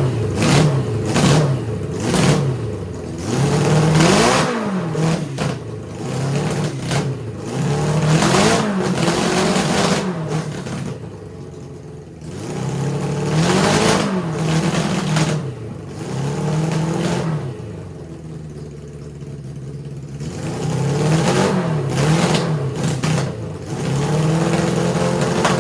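1978 Suzuki GS750's air-cooled inline-four running through a homemade custom exhaust, revved up and down again and again, with two short settled idle stretches between the runs of blips. It runs rough, which the owner takes as needing new spark plugs and a carburetor tune.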